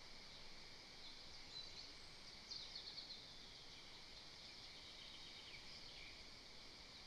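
Faint high songbird calls and short trills over a steady hiss, with one brief louder run of rapid high notes about two and a half seconds in.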